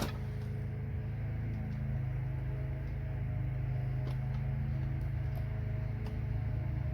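A steady low hum, as from a fan or motor in the room, with a few faint clicks of small parts being handled.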